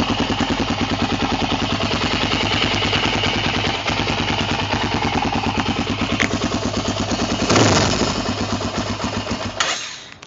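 Honda 400EX quad's single-cylinder four-stroke engine idling after a cold start, with an even pulsing beat. A short louder surge comes about seven and a half seconds in, and the engine cuts off just before the end.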